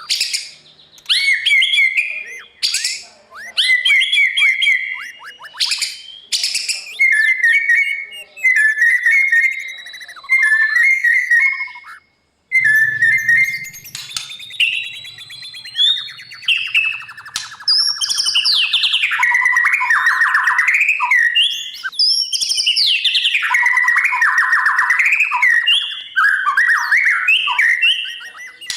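White-rumped shama singing a long, varied song of clear whistled notes, pitch glides and fast trilled phrases, with a short pause about twelve seconds in.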